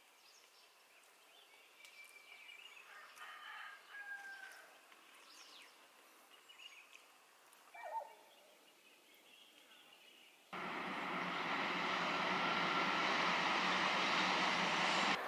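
Quiet rural outdoor ambience with faint, scattered bird calls, one louder call about eight seconds in. About two-thirds of the way through, a loud steady rushing noise cuts in abruptly and carries on until just before the end.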